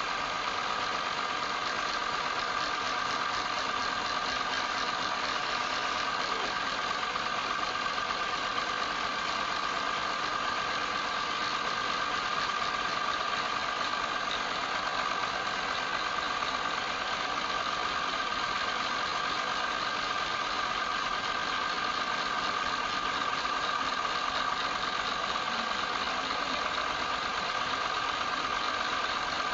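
Wood lathe running steadily, a constant motor hum with two steady high tones over a continuous hiss, unchanged throughout.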